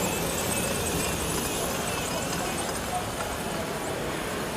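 Indistinct voices over a steady background of noise.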